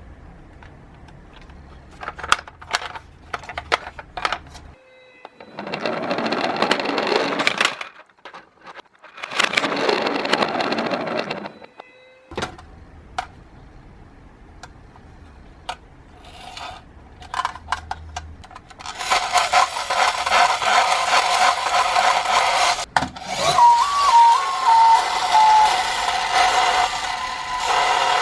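Small toy cars clicking and clattering on a plastic track, with two bursts of rough rolling noise and a longer stretch of rattling near the end, over which a short stepping electronic tone sounds.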